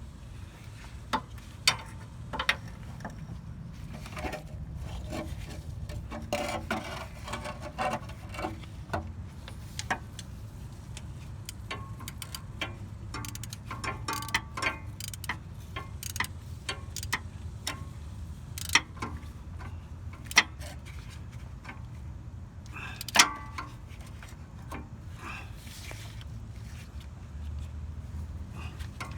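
Hand ratchet clicking in short rapid runs while bolts going into the aluminum engine block are tightened, with scattered sharp metallic clinks of tools.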